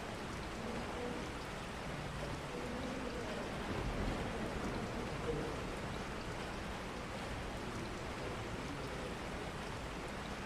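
Steady rain, an even hiss of falling rain with no break.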